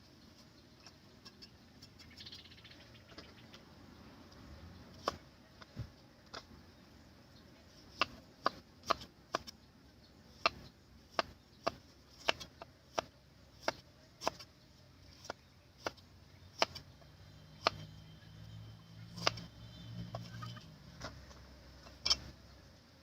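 Irregular sharp knocks and clicks, coming about one or two a second for most of the stretch, with a low hum rising under them for a few seconds near the end.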